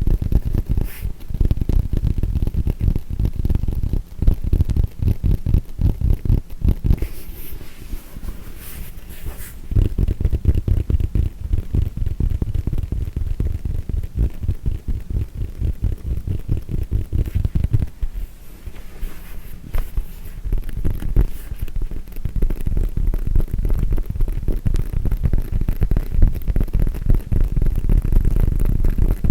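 Fast tapping on a yoga mat: many dull, low thuds a second, easing off briefly about 4, 10 and 18 seconds in.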